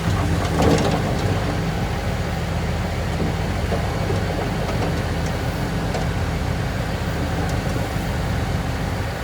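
Heavy diesel engine of an earthmoving machine running steadily under load, with a few short metallic knocks less than a second in.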